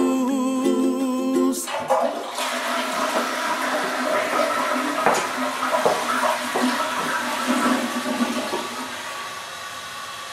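Ukulele music stops about a second and a half in, and a toilet flushes: a steady rush of water that slowly dies away.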